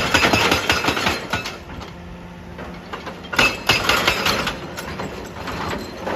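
Excavator working on rock: the machine runs steadily while two bursts of rapid clattering knocks, each about a second and a half long, come near the start and about halfway through.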